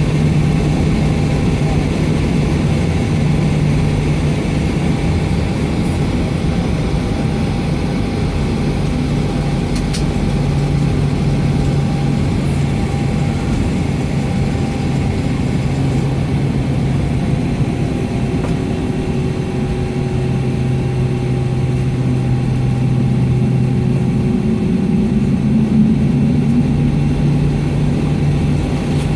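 Steady low hum of a Boeing 757 on the ground, heard from inside the cabin: its Pratt & Whitney PW2037 turbofans idling, with a few level tones over a constant rumble.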